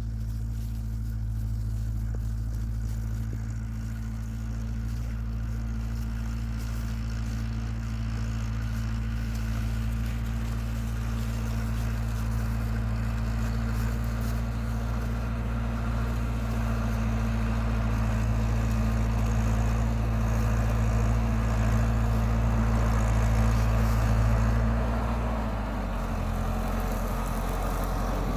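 Engine running steadily, growing a little louder, then dropping to a lower, slower note about 25 seconds in.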